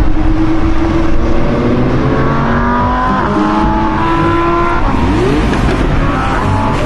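Audi R8's V10 engine accelerating hard. Its pitch climbs, drops back at a gear change about three seconds in and climbs again, with a quick sharp rise in revs about five seconds in.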